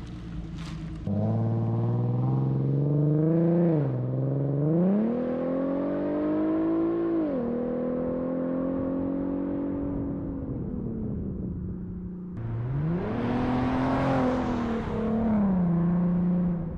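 Infiniti Q50 3.7's V6 through a custom stainless exhaust with an X-pipe and Flowmaster FX mufflers, accelerating hard: the engine note climbs, drops suddenly and climbs again as if through upshifts, holds steady, then falls away. About twelve seconds in it pulls hard again with a louder, rougher note before settling.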